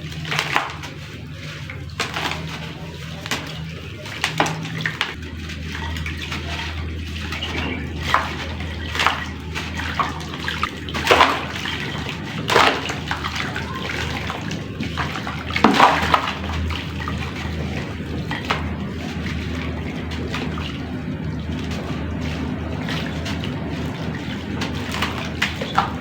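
Lumps of dry clay crumbling into water, with irregular splashes and plops, a few louder ones near the middle, over a steady low hum.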